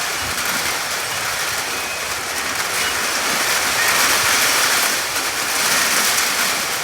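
Heavy monsoon rain pouring down, with water running and dripping off the rooftops: a steady, dense hiss that swells a little around the middle.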